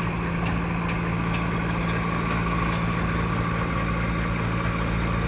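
Fishing trawler's engine running at a steady, unchanging pitch.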